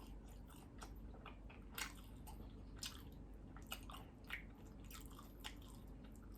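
Chewing a mouthful of skinless longganisa sausage: a string of faint, short mouth clicks at irregular intervals.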